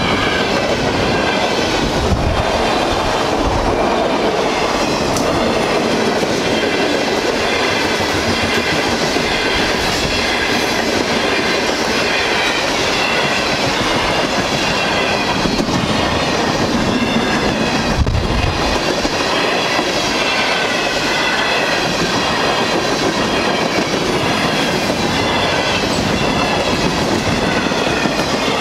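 Freight cars of a fast-moving NYSW freight train rolling past: a steady loud rumble and clatter of wheels over the rails, with wavering high-pitched tones over the top. Two heavier low thumps come about 2 seconds in and again midway.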